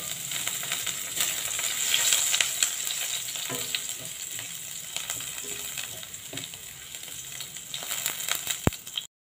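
Chopped ingredients hitting hot oil in a nonstick frying pan and sizzling steadily, loudest in the first few seconds, while a spatula stirs them around. There is a single sharp tap near the end.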